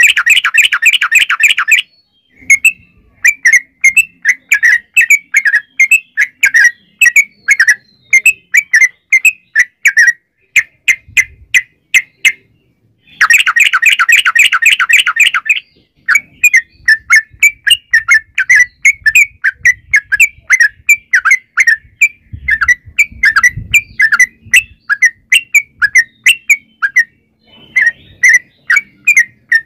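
Yellow-vented bulbul (trucukan) singing: short bubbly, chattering notes several a second, broken twice by a long, very fast rolling run of notes, at the start and about halfway through.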